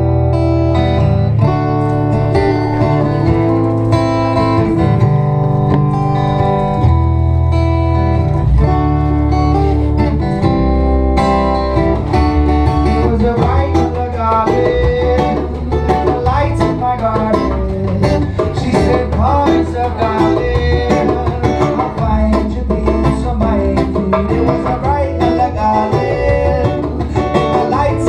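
Acoustic guitars playing a song's instrumental intro: held strummed chords at first, turning to busier picked notes after about eleven seconds.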